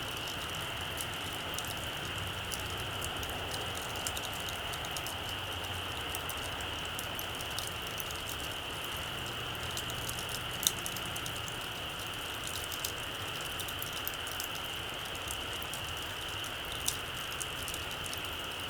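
Small campfire crackling: scattered faint pops and ticks over a steady hiss, with one sharper pop a little past the middle.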